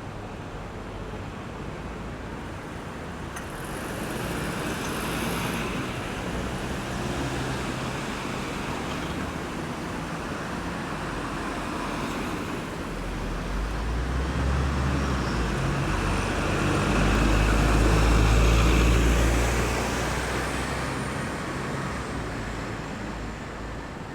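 Road traffic passing by: a continuous wash of tyre and engine noise. A heavy vehicle's low engine note builds to the loudest pass about three quarters of the way through, then fades.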